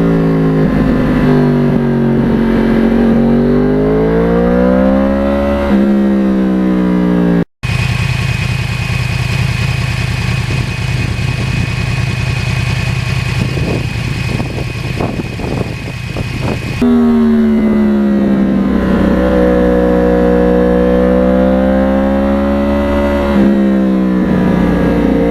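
2009 Yamaha R1's crossplane inline-four running through a custom exhaust on the move, its note falling and rising with road speed. After an abrupt cut about seven seconds in, several seconds of steady rushing noise with a thin high whine, then the engine note comes back, again swelling and easing.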